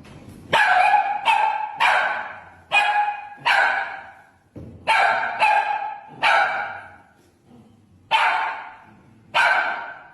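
A dog barking about ten times, in uneven bursts of single and double barks, each bark sharp at the start and trailing off.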